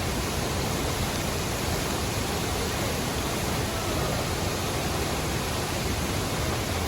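Waterfall, water falling into a pool with a steady rushing noise.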